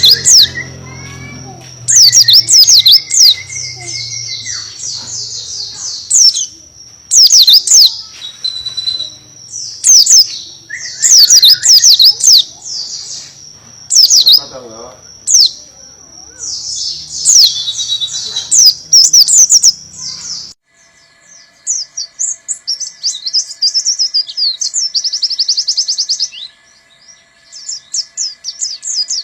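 Pleci buxtoni white-eye singing in loud, high bursts of rapid chirps, one every second or two, in canary-like 'tembakan' phrases. About two-thirds through the song drops away to quieter, denser twittering over a faint steady hum.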